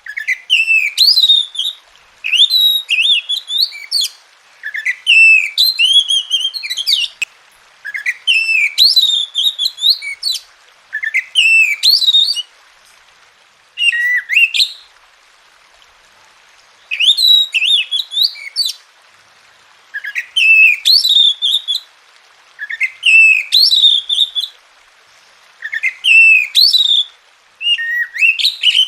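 Oriental magpie-robin (kacer) singing: loud whistled phrases of one to two seconds, about a dozen of them, each broken by a short pause.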